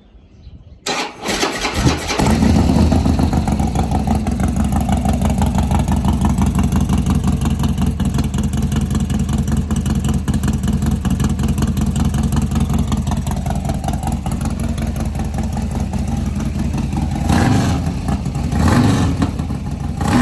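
Harley-Davidson Twin Cam V-twin with a Bassani shorty exhaust, cold-started: the starter cranks about a second in, the engine catches and settles into a steady idle, then two short throttle blips near the end.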